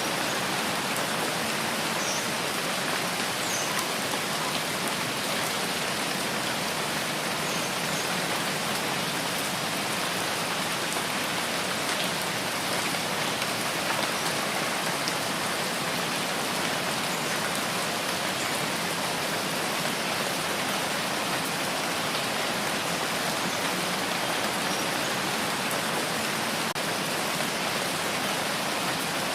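Steady rain falling, an even hiss of many drops with a few small distinct drips standing out now and then.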